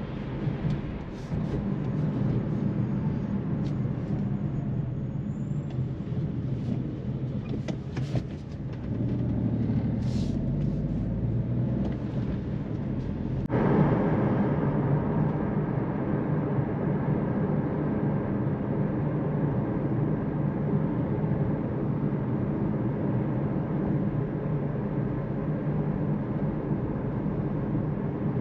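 Jeep Avenger's 1.2-litre turbocharged three-cylinder petrol engine running under way, with road noise, while the car is driven. There are a few sharp clicks in the first seconds. About halfway through the sound steps up suddenly in loudness and then stays steady.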